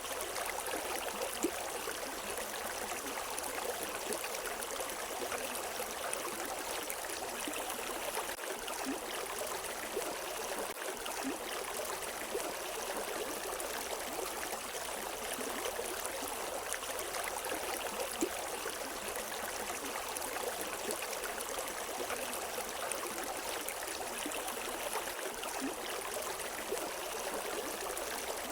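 River water flowing and splashing over rocks, a steady rushing with small gurgles.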